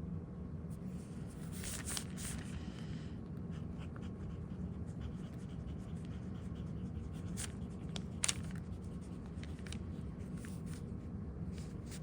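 Steel medium fountain pen nib scratching softly across paper as someone writes, over a steady low hum, with a small sharp tick about eight seconds in.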